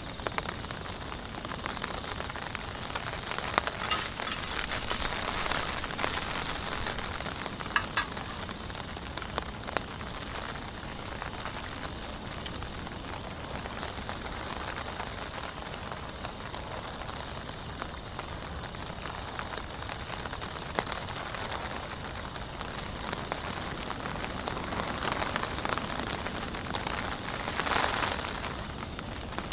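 Heavy rain falling steadily, with a few sharper drop taps and a louder swell near the end.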